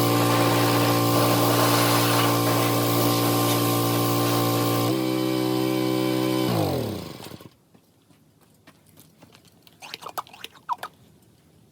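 Pressure washer running with the hiss of its spray, shifting pitch about five seconds in, then its motor winding down and stopping about two seconds later. A few faint clicks and taps follow near the end.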